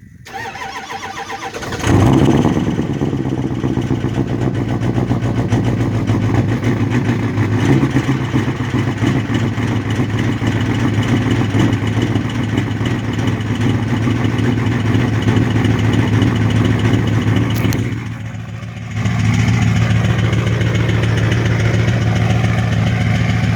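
2007 Ford F-250's 6.0 Power Stroke V8 turbodiesel cranking for about two seconds, then catching and running at a steady idle. This is a cold start at about 10 °F with no block heater, after the glow plugs were cycled once. The engine sound drops briefly quieter for about a second near the end.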